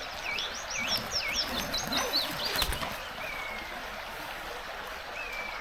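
Small birds singing, a quick run of sweeping whistled notes for the first two and a half seconds, then two single drawn-out falling whistles, over the steady rush of the river. A sharp click comes about two and a half seconds in.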